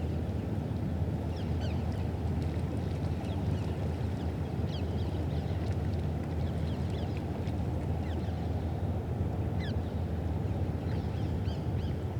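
A steady low rumble throughout, with short, high, falling bird chirps scattered over it.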